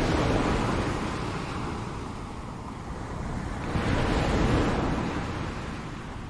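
Ocean waves breaking and washing on a shore: one wave crashes at the start and fades, and another breaks about four seconds in and washes out near the end.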